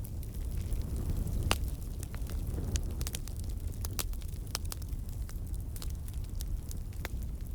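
Campfire burning: a steady low roar of flames with scattered sharp crackles and pops, a louder pop about one and a half seconds in.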